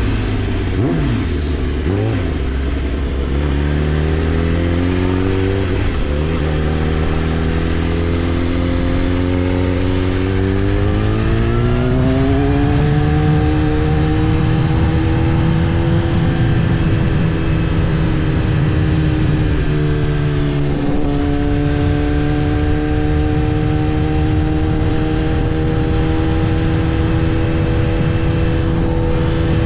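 Kawasaki ZX-10R's inline-four engine under way, running at low, steady revs at first, then rising smoothly about ten seconds in and holding a steady cruise, with a brief dip in revs about twenty seconds in.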